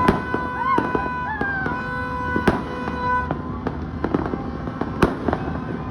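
Fireworks and firecrackers going off, with many irregular pops and bangs and a few louder blasts about two and a half seconds apart. Steady high-pitched tones and short whistles that rise and fall run over them.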